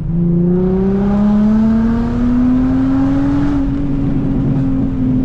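Straight-piped Infiniti G35 3.5-litre V6, muffler and resonator deleted, accelerating hard in gear: the exhaust pitch climbs steadily for about three and a half seconds. The driver then eases off and the engine holds a steadier, quieter note.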